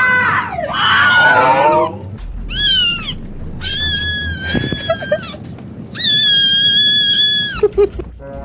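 A cat meowing loudly, a meme sound effect: falling cries at first, then a short meow rising and falling, then two long drawn-out meows of about a second and a half each.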